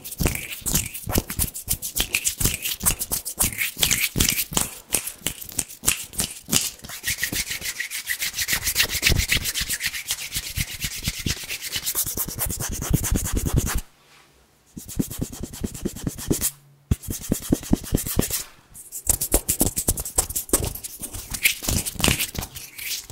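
Bare hands rubbing and brushing together fast and close to the microphone, a dry, crisp swishing made of rapid strokes. About halfway through the strokes merge into a smoother, steady rub, then the hands stop briefly two or three times before the quick rubbing resumes.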